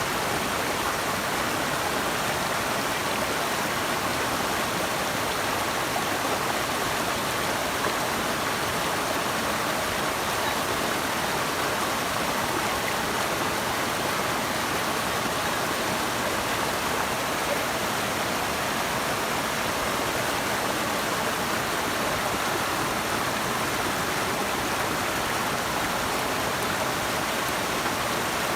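Steady rushing of a stream or small waterfall, an even water noise with no breaks.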